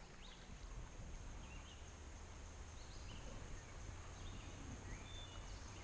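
Quiet outdoor ambience on a wooded river, with a few faint, scattered bird chirps.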